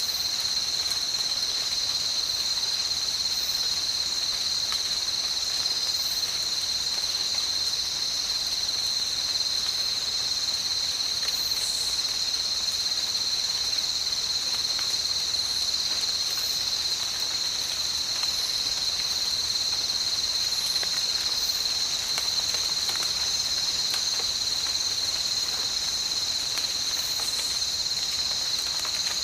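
Steady insect chorus, a continuous high-pitched trilling that never breaks, over a faint even hiss of light rain.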